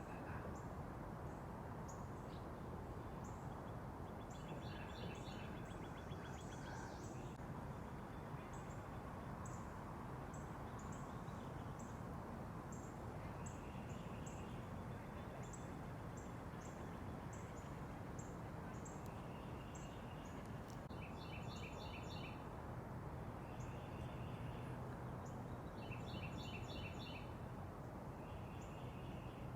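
Small backyard songbirds calling: many short, high chirps scattered throughout, with quick trilled runs of notes about five seconds in and several more times near the end, over a steady low background rumble.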